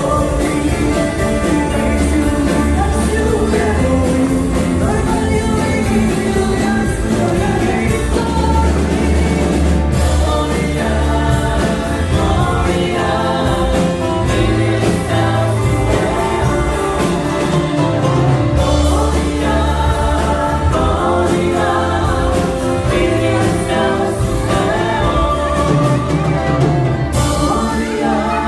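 A group singing a Christian song with amplified band backing and a steady beat.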